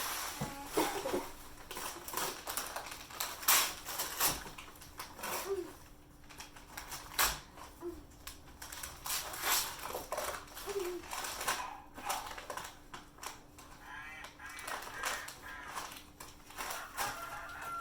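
Gift packaging being handled: irregular rustling and crinkling with scattered sharp clicks and taps.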